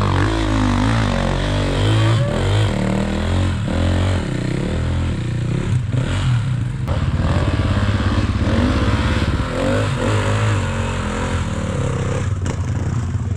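Dirt bike engine being ridden, the revs rising and falling over and over, with a few sharp knocks and some clatter.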